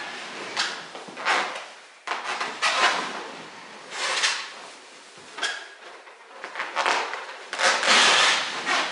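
Inflated rubber balloons pressed and rubbed under a person's weight as she sits and bounces on them: a string of irregular rubbing, creaking sounds, each a fraction of a second long, the longest and loudest near the end.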